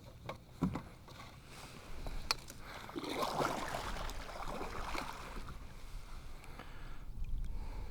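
Water sloshing against a kayak, with a few sharp knocks in the first couple of seconds and a louder wash of water about three seconds in.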